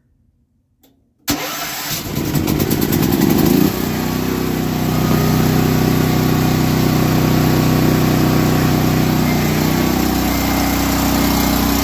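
A small gasoline engine on a pressure-washing rig is cranked over a little more than a second in and fires up. After about two seconds of starting it settles into a steady run, and its note shifts slightly near the end.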